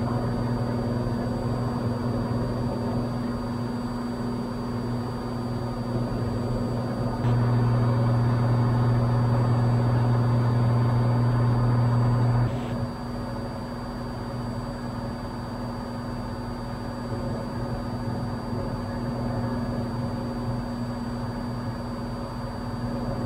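Cessna 182 single-engine piston engine and propeller droning steadily in the climb, heard in the cabin. About seven seconds in, the low hum grows noticeably louder for about five seconds, then drops back.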